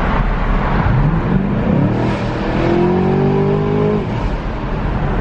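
2020 Chevy Camaro 2SS's 6.2-litre V8 accelerating hard through a tunnel, heard from inside the cabin. The engine note rises in pitch for about three seconds, then falls away about four seconds in.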